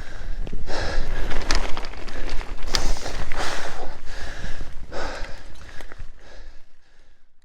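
Mountain biker breathing hard in loud, noisy puffs about once a second, over a low rumble of wind and riding noise; it fades out near the end.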